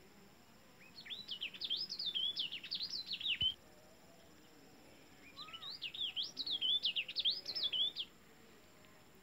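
A songbird singing two rapid phrases of quick rising and falling whistled notes, each phrase about two and a half seconds long, with a pause between them.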